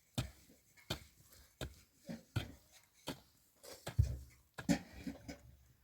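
A series of sharp knocks or taps, irregular, about one every half second to second, with a heavier thud about four seconds in.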